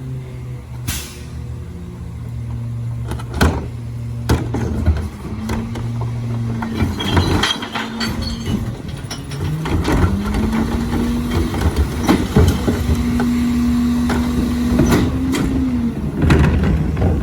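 A 2016 Crane Carrier CNG garbage truck with a Leach 2RIII rear-loader body running. Its engine pitch rises and holds three times, with sharp knocks and clanks between.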